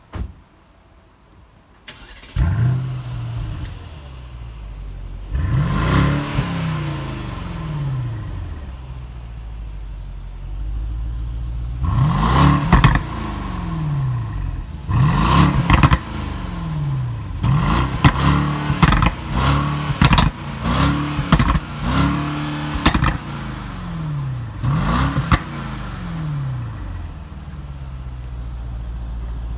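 Mercedes-Benz S560's twin-turbo V8 started about two seconds in, flaring and settling to idle, then revved in short blips through its exhaust, with a quick run of several blips in a row in the second half.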